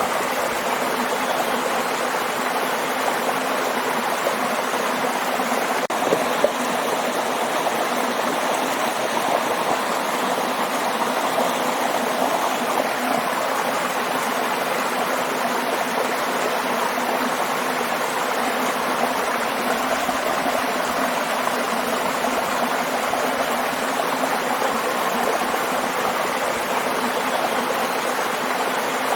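Waterfall: steady, unbroken rushing of falling water. One short click sounds about six seconds in.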